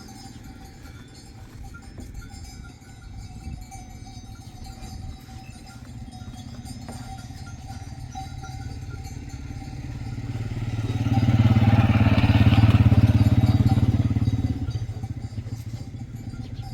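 A motor engine running, which grows much louder about ten seconds in and fades again a few seconds later.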